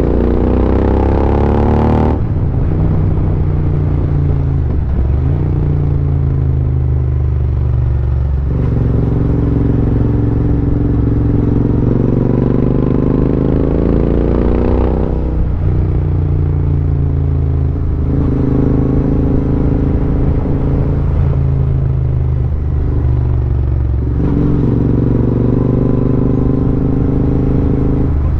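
Royal Enfield Interceptor 650's 648 cc parallel-twin engine running under way, heard from the rider's seat. The revs climb and then drop sharply several times, about two seconds in, around eight and a half, fifteen and twenty-four seconds, as the bike is ridden along.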